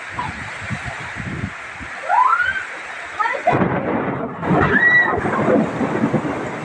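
Steady rain with thunder rumbling; the storm sound grows louder and heavier about three and a half seconds in.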